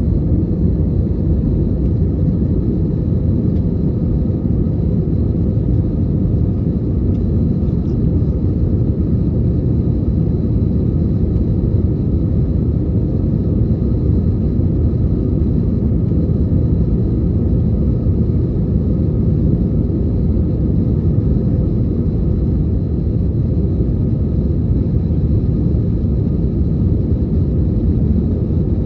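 Steady, loud low rumble of an Airbus A321 in motion, its engines and airflow heard from inside the passenger cabin.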